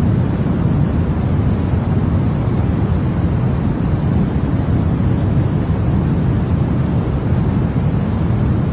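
Continuous generated noise played as a sleep aid for babies: a loud, even, deep rush that never changes, heavier in the low end than in the high.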